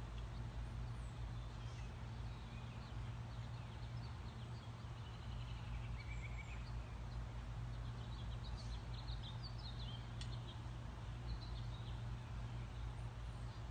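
Birds chirping in short scattered calls, busiest through the middle, over a steady low hum and outdoor background noise.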